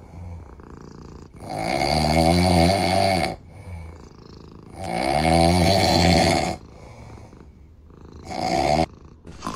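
Loud snoring: two long snores about three seconds apart and a shorter one near the end, with quieter breathing between.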